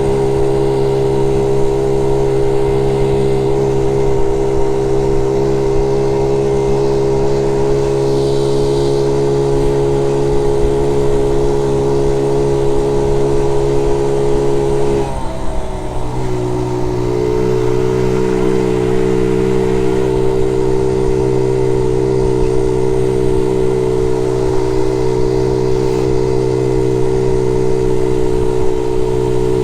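Honda Z50 J1 monkey bike's small four-stroke single-cylinder engine running steadily under way, smooth and free of misfires now that its faulty ignition coil has been replaced. About halfway through the engine note dips briefly, then settles a little higher, as with a throttle lift or gear change.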